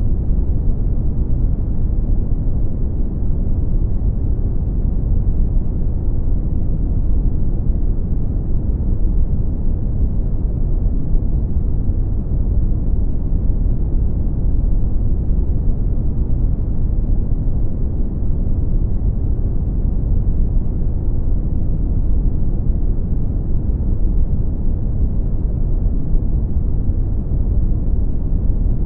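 Brown noise: a steady, deep rumbling hiss with most of its energy in the low end and little above the mid range, unchanging throughout.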